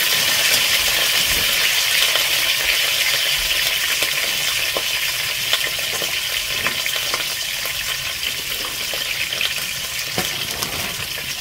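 Frozen meatballs, straight from the freezer, sizzling in hot olive oil in a stockpot. A steady hiss is broken by scattered sharp pops, and the frying eases off slowly.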